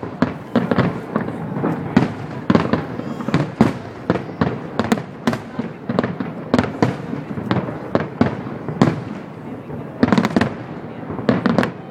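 Aerial fireworks bursting in rapid succession: a steady stream of bangs and crackles, several a second, with clusters of heavier bangs near the end.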